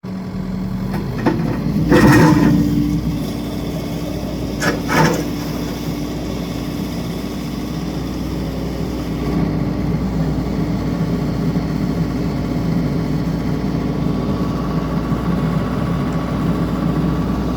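An engine running steadily, with a couple of sharp knocks about two and five seconds in.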